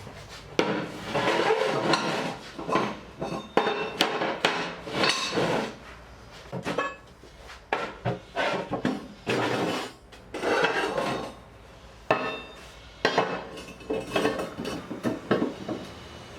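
Irregular hammer knocks and clanking of metal and wood, coming in clusters with short pauses between them.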